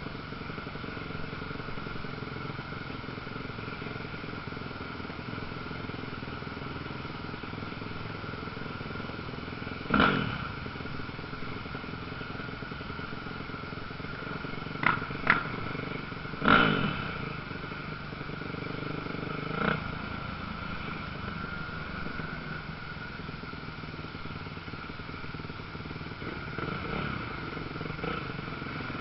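Motocross motorcycles' engines running steadily, with short loud revs standing out about ten seconds in, twice in quick succession around fifteen seconds, again soon after, and once more near twenty seconds.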